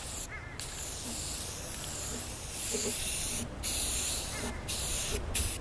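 Aerosol can of oil-based spray paint hissing in long sprays, broken by four brief pauses, laying on a heavy coat.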